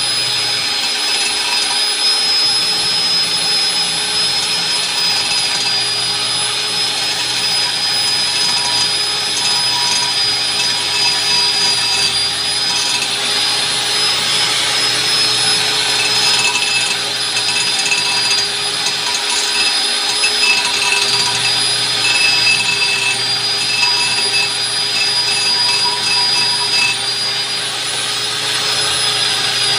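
A power tool's electric motor runs steadily with a high whine and a hiss, likely during brake drum resurfacing.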